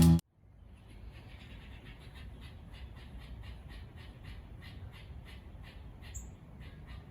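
Music cuts off at the very start. Then a bird calls over and over, about two or three short calls a second, over a faint low rumble.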